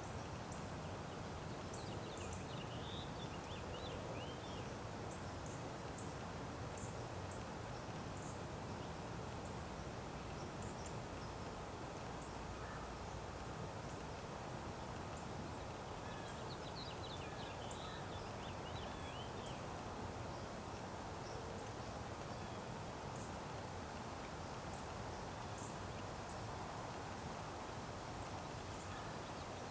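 Small birds chirping in two short bouts, one about two seconds in and another from about sixteen to nineteen seconds in, with scattered high ticks, over a steady low outdoor rush.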